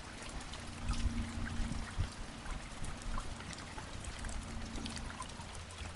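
Steady rain falling, with scattered ticks of drops striking close by and water running.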